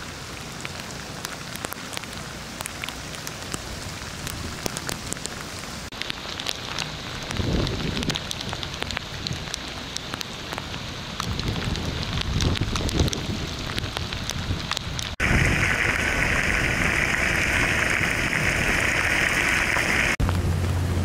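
Heavy rain falling on floodwater and pavement, a dense patter with many close drop ticks and some low rumbles in the middle. Near the end it turns into a louder, hissing downpour.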